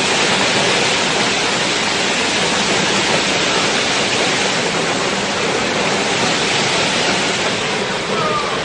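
Flash-flood water rushing down a desert wadi: a steady, unbroken rush of water.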